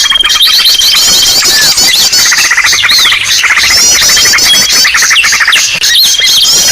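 Loud, dense chorus of many small birds calling at once in a bird-lure recording: fast trills, chirps and high squeaky notes overlap throughout. A long, level whistle is held at the start and comes back near the end.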